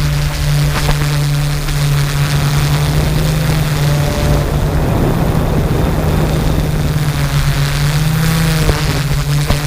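Small drone's propellers running in flight: a loud, steady hum that steps up slightly in pitch about eight seconds in.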